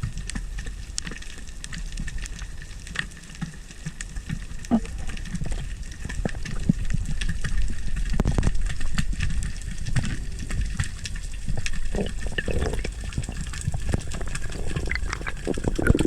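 Underwater reef ambience picked up by a diver's camera: a constant crackle of sharp clicks over a low rumble of moving water, getting somewhat louder about halfway through.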